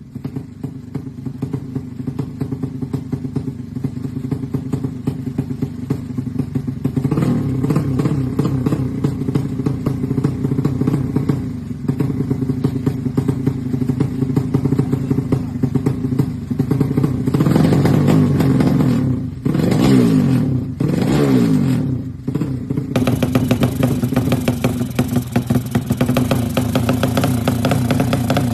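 Yamaha Jupiter Z's bored-up single-cylinder four-stroke engine running at idle, blipped a few times about two-thirds through with the revs dropping back each time. The sound gets brighter for the last few seconds.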